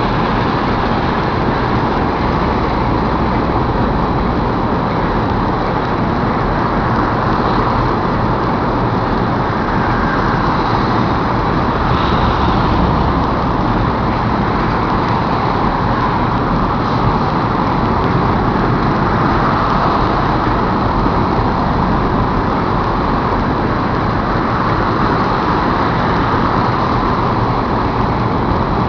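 BNSF freight train rolling past at close range: a steady, unbroken rumble of wheels on rail and rolling cars.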